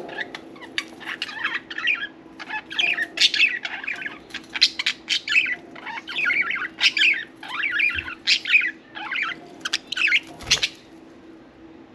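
Budgerigars chattering and warbling, a dense run of fast chirps and squawks, with sharp clicks mixed in.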